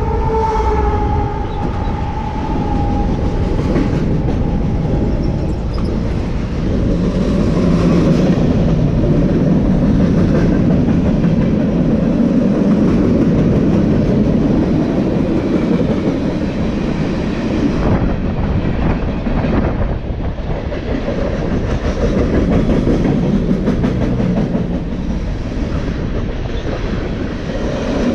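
CSX freight train rolling past at speed: a steady, heavy rumble of railcars with wheels clicking over the rail joints. A horn note trails off, dropping slightly in pitch, in the first second or so.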